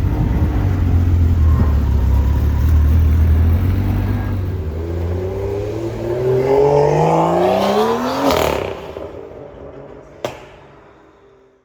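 A supercar's engine and exhaust rumbling at low revs, then accelerating hard, its pitch climbing steadily for about three seconds before it drops away and fades out. A single sharp click comes near the end.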